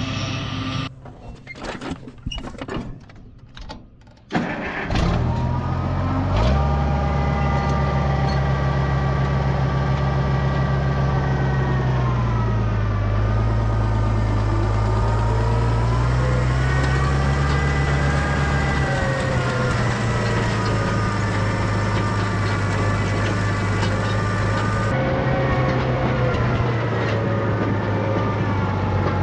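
Tractor diesel engine starting about four to five seconds in after a short quieter stretch with a few clicks, then running steadily, its speed dipping and rising a little.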